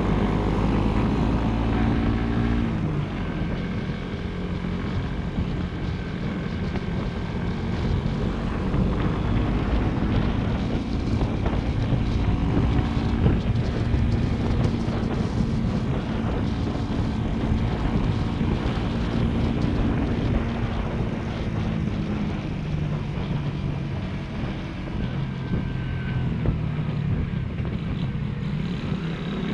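Motorcycle engine running under way, its note changing about two seconds in and again past the middle, with wind noise on the microphone.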